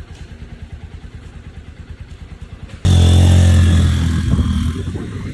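Dirt bike engine idling with a quick, even beat, then revved sharply about three seconds in, the loud rev easing back down toward idle.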